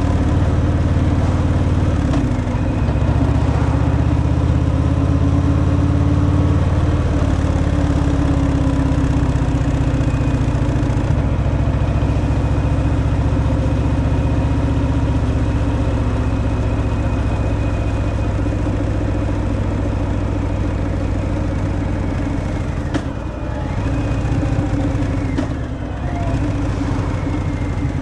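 Harley-Davidson Fat Boy's V-twin engine on its stock exhaust, running steadily under way, with a brief dip and change in the engine note a few seconds before the end.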